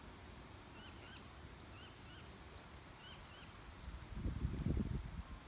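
A bird calling in three pairs of short chirps over about two seconds. About four seconds in, a low rumble lasting about a second is the loudest sound.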